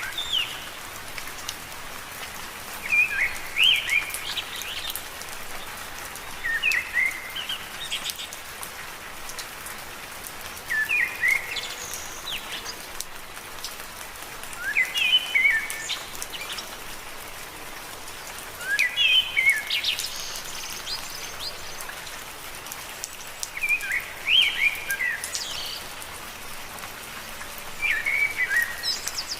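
Steady gentle rain on leaves, with a short burst of high chirping calls about every four seconds.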